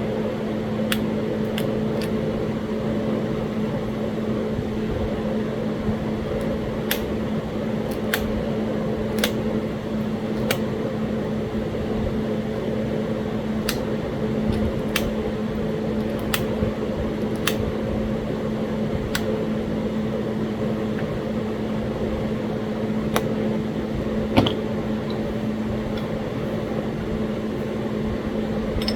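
Steady mechanical hum, like a fan, with small sharp clicks every second or two as flakes are pressure-flaked off a Talahata quartzite point.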